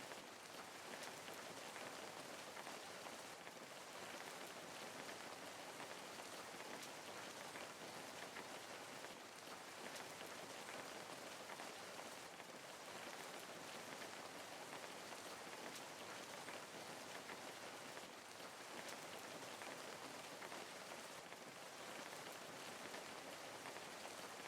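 Steady rain falling, an even hiss dotted with many fine drop ticks.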